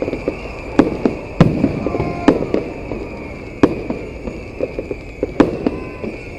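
Fireworks going off: about five sharp, loud bangs spaced a second or so apart, with smaller crackling pops in between.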